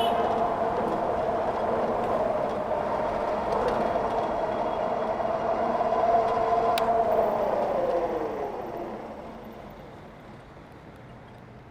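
Electric e-bike at speed: a steady motor whine over rushing wind and tyre noise. About eight seconds in, the whine falls in pitch and the noise fades as the bike slows.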